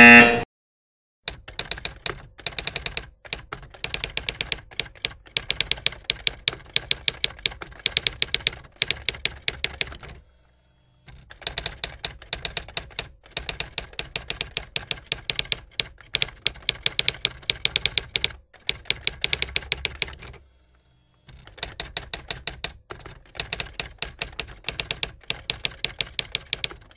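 A brief loud pitched sound at the very start, then rapid typing clicks in long runs, a typing sound effect for text being typed out, broken by a few short pauses, the longest about ten seconds in.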